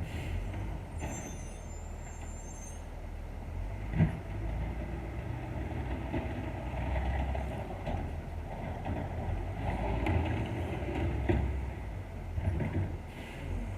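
Diesel engine of a Crane Carrier LET1 garbage truck running with a steady low rumble that swells and eases as the engine works. A brief high-pitched squeal sounds about a second in, and a sharp knock comes about four seconds in.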